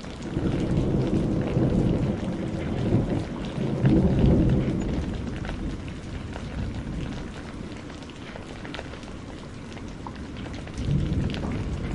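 Thunder rumbling over steady rain: a deep roll builds just after the start, peaks around four seconds and dies away, and another begins near the end. Scattered small crackles of a wood fire sound through it.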